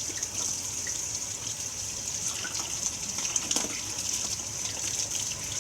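Kitchen tap running in a steady stream while a hummingbird feeder's parts are rinsed and cleaned under it, with a small knock about three and a half seconds in.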